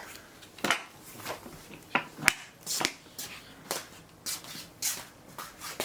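A series of irregular light clicks and knocks, about a dozen over several seconds, from objects being handled.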